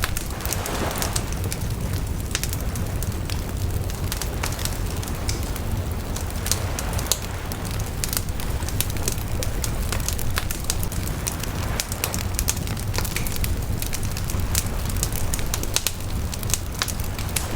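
Wood bonfire burning, with dense irregular crackling and popping over a steady low rush of the flames.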